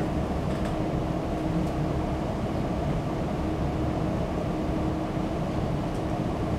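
Steady low hum of background noise, with one thin steady tone in it.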